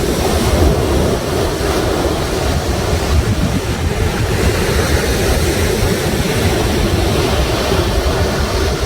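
Sea waves washing and breaking continuously, a steady surf noise with a heavy low rumble, likely partly wind buffeting the microphone.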